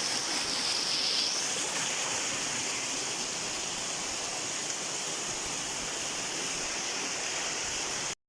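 Waterfall's water rushing in a steady hiss, which cuts off abruptly near the end.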